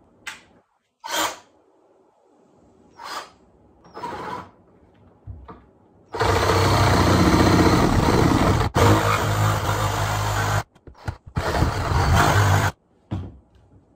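A power saw cutting into a wooden floorboard. It runs steadily for about four seconds, stops briefly, then runs again for about a second and a half, after a few short knocks in the first seconds.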